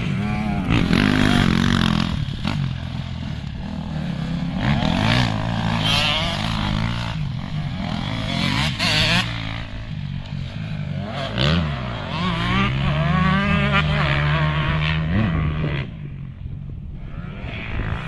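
Motocross bike engines running and revving, their pitch rising and falling again and again with the throttle, at times more than one bike at once. The engines drop quieter for a moment near the end.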